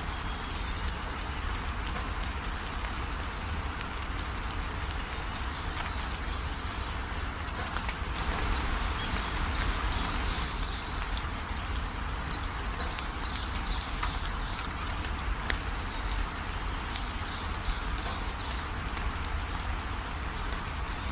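Steady rain falling, with birds chirping in high, rapid twittering runs over it that come and go.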